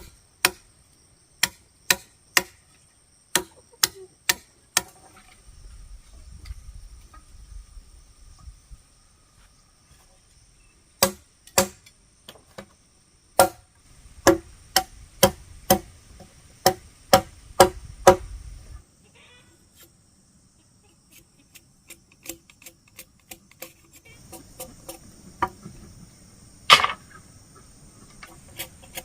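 Repeated sharp strikes, in runs of several at about two a second, each with a short ring, and one louder strike near the end. A steady high insect drone runs underneath.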